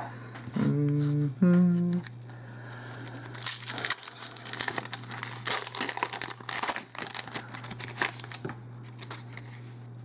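Foil wrapper of a Magic: The Gathering Origins booster pack crinkling and tearing as it is handled and opened, a dense run of crackles from about three seconds in to near the end. Two short hums of a voice come just before, and a steady low electrical hum runs underneath.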